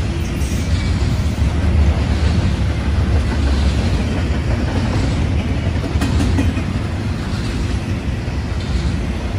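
Double-stack container well cars of a freight train rolling past at speed: a steady low rumble of steel wheels on rail, with a few faint clicks.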